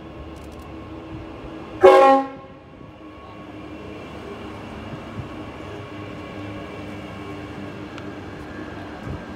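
Queensland Rail electric multiple-unit passenger train sounding one short horn blast about two seconds in as it runs into the platform. Its carriages then roll steadily past.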